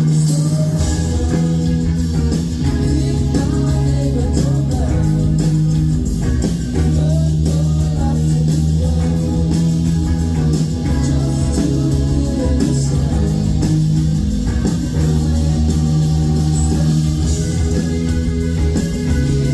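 Rock band playing live: electric guitar, bass guitar and drums with cymbals, loud and steady.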